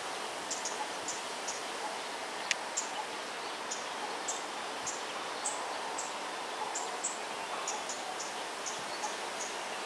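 Outdoor ambience: a steady hiss with a small bird's short, high chirps repeating irregularly, roughly two a second. One sharp click about two and a half seconds in.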